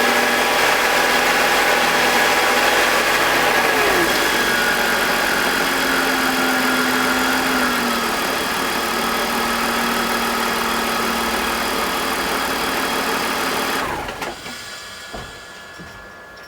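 BMW E46 M52TU 2.5-litre straight-six idling with the VANOS connected. Its idle drops about 4 seconds in and again around 8 seconds, the RPM drop the owner links to a suspected VANOS fault, with any grinding not very audible. The engine is switched off about 14 seconds in and its sound dies away.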